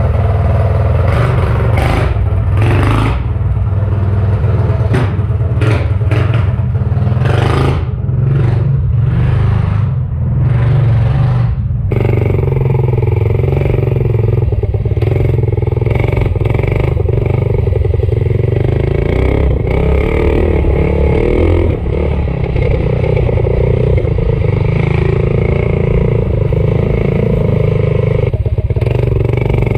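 Stage 4 Predator 212cc single-cylinder four-stroke engine running hard on a minibike under way, its timing advanced. Rough rattling and scraping noise comes and goes over the first twelve seconds or so, then the engine runs steadily.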